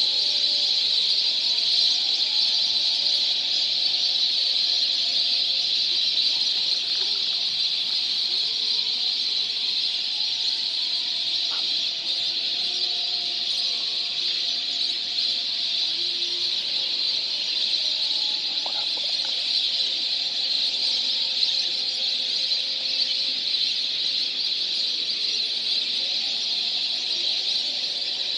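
Continuous dense chorus of a large flock of migratory birds calling and chirping, a steady high-pitched wash with scattered lower calls through it.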